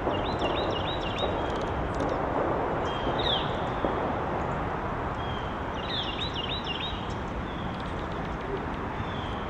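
Small birds at a feeder chirping in short quick calls, some in rapid runs of several, over a steady background hiss.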